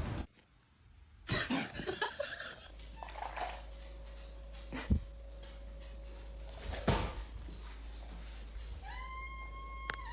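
A pet's single high, drawn-out cry near the end, rising and then held for about a second, after a low steady hum and a couple of sharp knocks.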